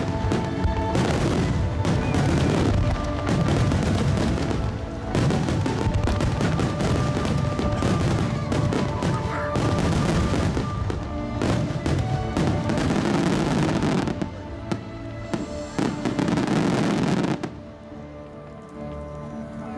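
Fireworks shells bursting in dense, rapid volleys over music played along with the display. Near the end the bursts die away and the music carries on more quietly.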